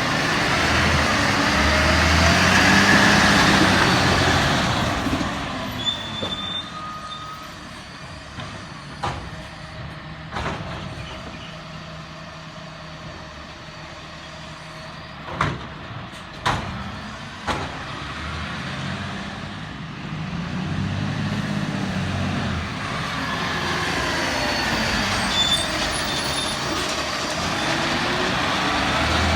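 Garbage truck engine revving up and back down, with a run of sharp bangs and clunks in a quieter stretch between, then revving up again near the end.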